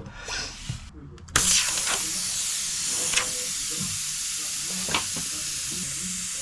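Steady hiss of pressurised gas rushing from a refrigeration line or fitting, starting suddenly about a second and a half in, with two short clicks.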